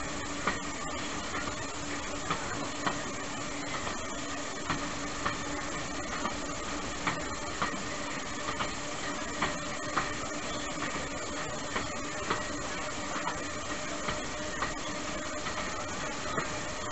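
Small narrow-gauge train carriage running along the track: a steady rumble and hiss, with a steady hum that fades about halfway through, and short sharp clacks about once or twice a second, irregularly spaced.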